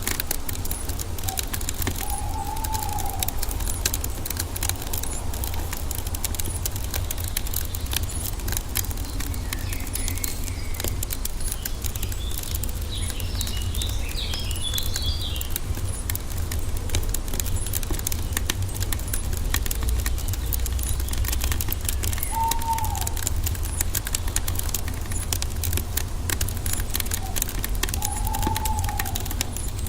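Log fire crackling steadily over a low rumble, with birdsong in the background: a short rising-and-falling call three times, and a flurry of high chirps about halfway through.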